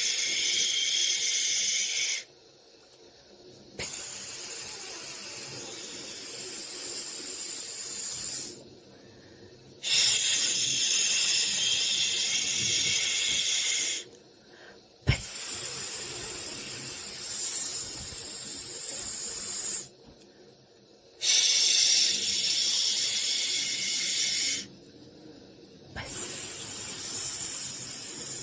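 Hissing white noise for soothing a baby, coming in long bursts of two to five seconds. Each burst is separated from the next by a short pause of about a second and a half.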